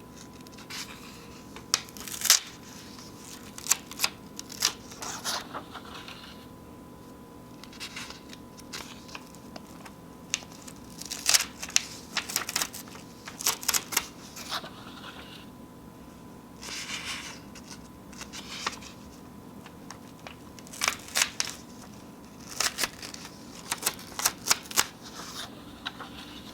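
Sheets of paper being torn and crinkled, in short irregular bursts of crackling separated by brief pauses.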